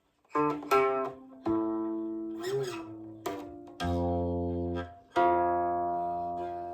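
Guqin played solo: single plucked notes that ring on, one bending up and back down in a slide about two and a half seconds in, then deep low-string notes from about four seconds in.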